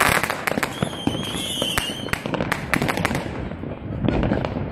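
Fireworks and firecrackers going off in a dense string of bangs and crackles, with a loud bang at the start and a wavering whistle for about a second from just under a second in.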